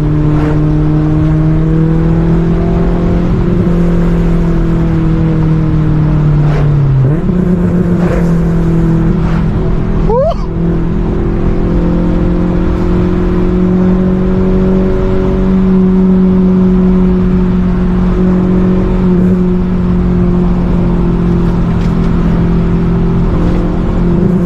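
Straight-piped Honda S2000 four-cylinder running under load from inside the car, its exhaust drone held at fairly steady revs. The pitch drops briefly and recovers about seven seconds in, as at a gear change, and a quick sharp rise in pitch comes about ten seconds in; near the end the pitch dips and climbs again.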